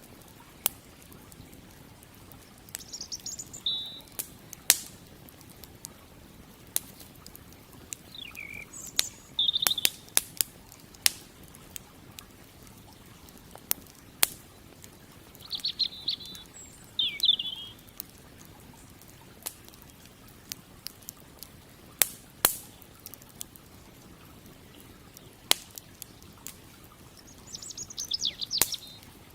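Wood campfire crackling, with sharp, irregular pops scattered throughout. A songbird sings short chirping phrases four or five times over it.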